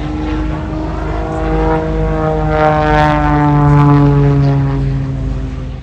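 Propeller airplane flying past, its engine and propeller drone swelling to a peak and then fading, the pitch sliding steadily down as it passes.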